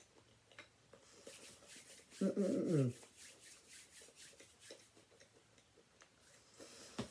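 Close-up chewing of a toasted ham and cheese panini, the grilled bread crackling between the teeth. About two seconds in, the eater gives a short, slightly falling hum, and there is a sharp click near the end.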